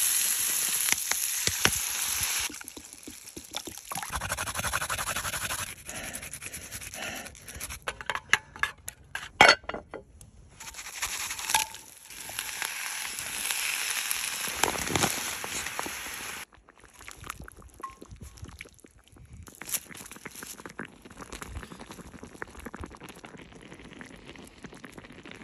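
Pieces of offal sizzling in a cast-iron skillet over charcoal. About a third of the way through comes a run of sharp clinks and knocks of utensils against the pan. Then the pan sizzles again as cabbage goes in, and it settles to a quieter simmer in the last third.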